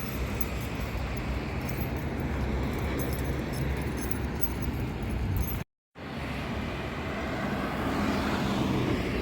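Car running with steady engine and road rumble. About halfway through, the sound cuts out completely for a moment and then resumes much the same.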